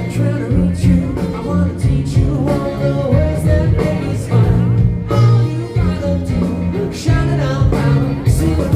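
Live blues band playing with a singer, electric guitar and bass, over a steady beat.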